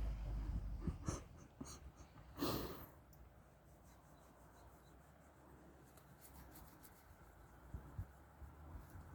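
Soft rustling and rubbing, with a few clicks in the first two seconds and a brief louder rustle about two and a half seconds in, then mostly quiet with faint ticks and a couple of light thumps near the end.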